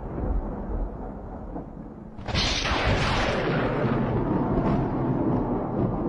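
A low rumble, then a sudden loud crash a little over two seconds in that rolls on as a steady roar.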